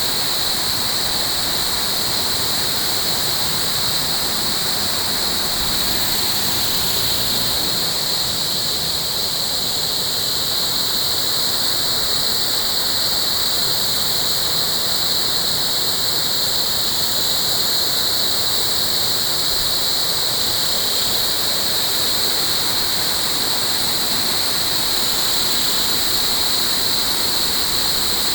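Steady rushing water, like a stream or waterfall, with an unbroken high-pitched buzz lying over it.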